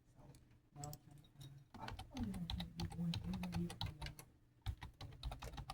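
Rapid, irregular clicking taps like typing on keys, with a voice briefly sounding in the middle.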